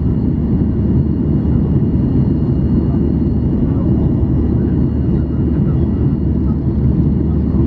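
Steady cabin roar of a Boeing 737-800 in flight, heard inside the cabin: a deep, even rush of engine and airflow noise from its CFM56 turbofans, with faint high steady tones above it.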